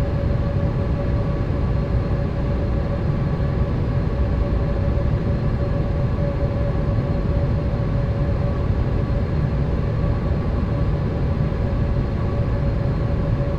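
Steady cabin noise of a Boeing 787 airliner in flight: a constant low rumble of engines and airflow with an even hum over it.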